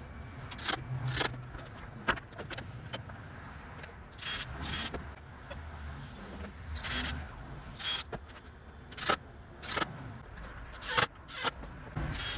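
Irregular knocks, clacks and scrapes of timber decking boards and offcut spacers being handled and set in place on the deck.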